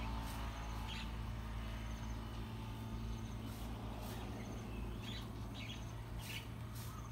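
Birds chirping now and then, a few short chirps at a time, over a low steady hum that slowly fades away.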